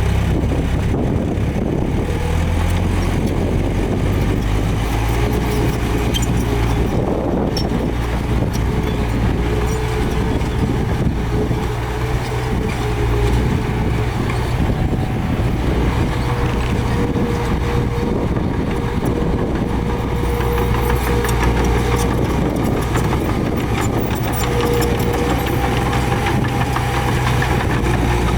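Heavy diesel earthmoving machinery running steadily at low engine speed, with a thin whine that comes and goes above the engine.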